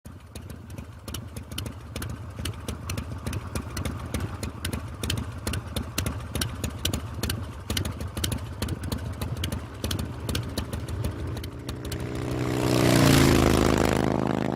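Harley-Davidson V-twin motorcycle engine running at a low, uneven beat of exhaust pulses, growing louder near the end.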